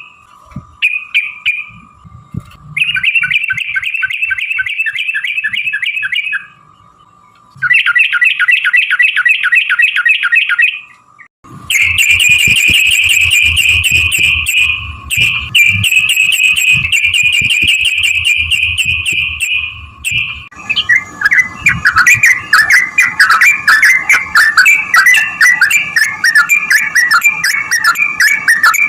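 Yellow-vented bulbul (trucukan) singing its long rolling trills: fast rattling phrases in several long bursts, turning into a denser, busier chatter about two-thirds of the way in. A faint steady tone runs underneath.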